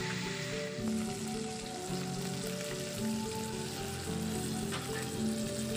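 Food sizzling as it fries in a wok over a wood fire, a steady hiss, with soft background music.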